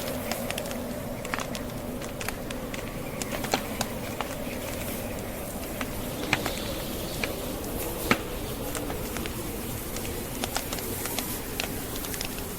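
Logs burning in a fireplace, crackling with irregular sharp pops, the strongest about eight seconds in, over a steady rushing of blizzard wind.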